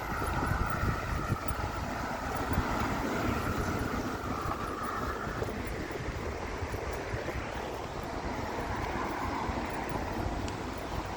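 A passing vehicle's steady drone, fading away about five seconds in, with a fainter drone later, over a constant low rumble.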